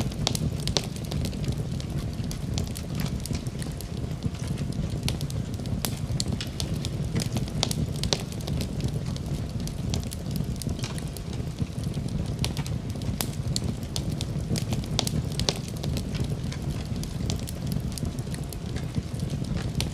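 Fire crackling in a fireplace: a steady low rush of flames with many irregular sharp pops and snaps.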